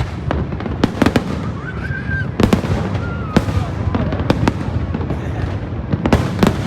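Aerial fireworks bursting: a run of sharp bangs at irregular intervals over a steady low rumble, with a cluster of bangs near the end.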